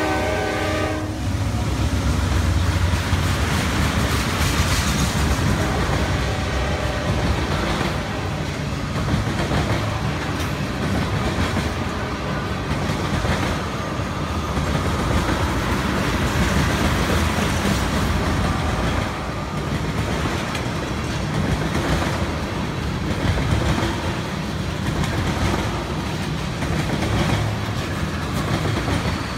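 Freight train of ethanol tank cars rolling past close by: a steady rumble of wheels on rail with clicking over the rail joints. A locomotive horn is sounding at the start and cuts off about a second in.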